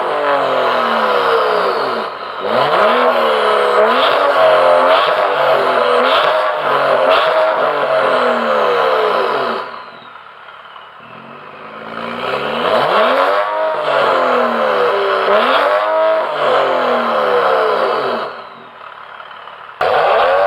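BMW N55 turbocharged straight-six running through a Mach5 stainless-steel valved aftermarket exhaust, revved up and down over and over in quick rising and falling sweeps. About halfway through it drops to a quieter low run for a couple of seconds. It drops again shortly before the end, then comes back loud abruptly.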